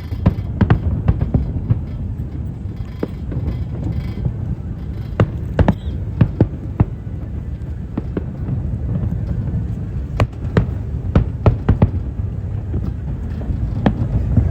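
Fireworks exploding: irregular sharp bangs and crackles over a continuous low rumble, the bangs coming thicker in the second half.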